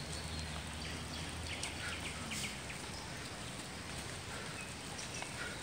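Steady outdoor noise of light rain, with a few short, faint bird chirps around the middle.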